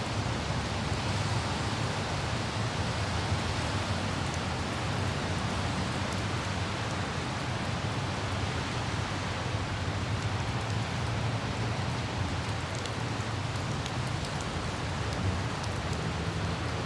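Steady light rain hiss with a low rumble of vehicle traffic underneath and a few faint droplet ticks.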